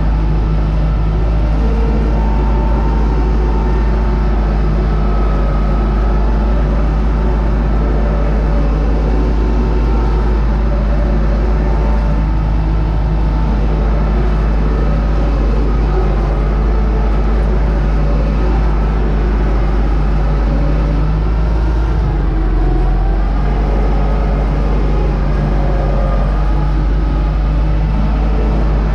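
U650 tractor's four-cylinder diesel engine running steadily under load while pulling a seed drill at sowing, with a deep, even drone.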